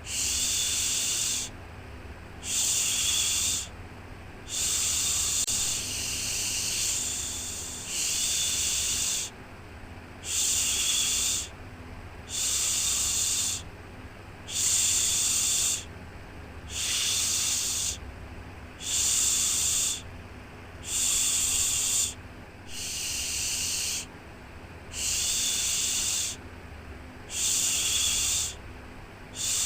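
Repeated 'shhh' shushing for soothing a baby to sleep, one long shush about every two seconds with short gaps between, over a steady low rumble.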